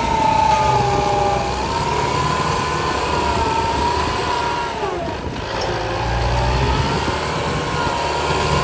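A truck's engine and machinery running with a steady low rumble under a high whine that wavers in pitch. The whine sags sharply about five seconds in, then climbs back.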